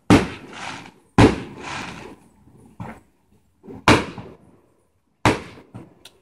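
Aerial fireworks bursting: four sharp bangs, at the start, about a second in, near four seconds and past five seconds, each dying away in an echo over about half a second.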